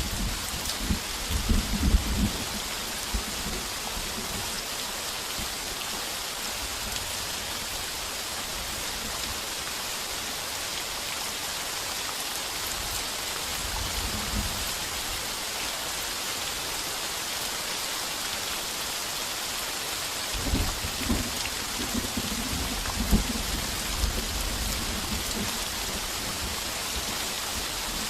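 Heavy rain pouring steadily on a tin roof. Thunder rumbles low in the first few seconds, faintly about halfway through, and again in rolls from about twenty seconds in.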